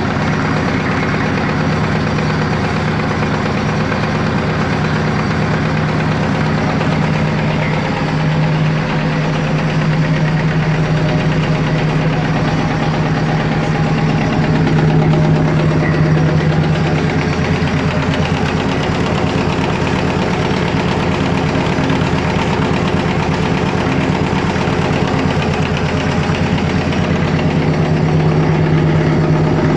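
AVZ-180 rotary-plunger vacuum pump running steadily, a loud mechanical hum with a fast even pulse. The pump is still wet inside and its oil not yet degassed, so it is not yet pulling its full vacuum.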